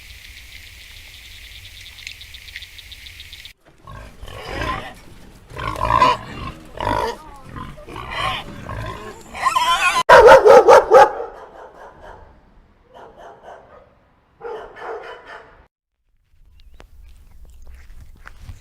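Pigs grunting and squealing in a run of irregular calls, loudest about ten seconds in. Before them, a steady high-pitched outdoor hiss of birds or insects cuts off suddenly.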